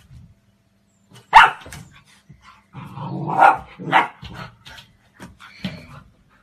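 A dog barking: one sharp, loud bark a little over a second in, then a quick run of barks about three to four seconds in, with a few softer ones after.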